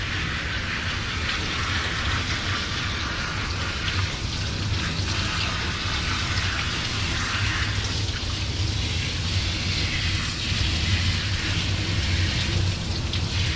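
Steady spray of water from a dog-wash hose sprayer, an even hiss with a low hum underneath.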